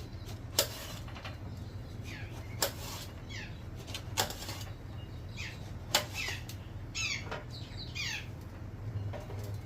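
Knife cutting eggplant on a cutting board, four sharp knocks spaced a couple of seconds apart, while birds call with short falling chirps throughout.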